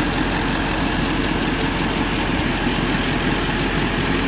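Ford F450 crane truck's engine running at a steady idle with the PTO engaged, driving the crane's hydraulic pump while the inner boom is raised.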